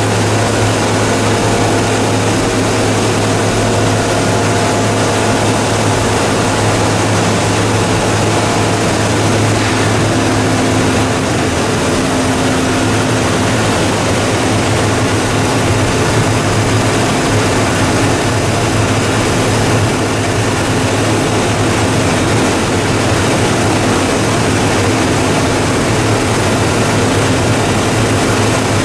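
Two-stage plastic recycling machine running steadily: a loud, continuous machine noise with a deep hum.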